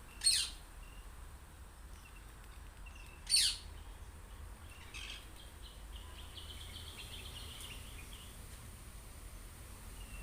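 Green parakeets calling: two short, loud, harsh calls about half a second and three and a half seconds in, a fainter call near five seconds, then a quick run of high chirps lasting about two seconds.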